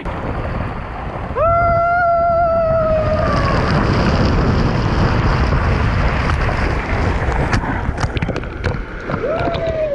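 A loud, steady rush of water at the foot of a waterslide. About a second and a half in, a person lets out a long high yell, and near the end there is a shorter yell that falls in pitch.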